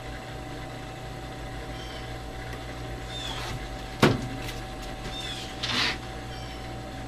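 Workshop handling sounds during glue-up of a wooden bird feeder: one sharp knock on the bench about four seconds in and a short scrape just before six seconds, over a steady electrical hum. Faint short chirps are heard a few times.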